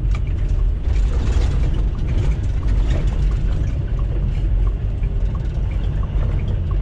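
Semi truck's engine and road noise heard from inside the cab while driving: a steady low rumble with light scattered rattles.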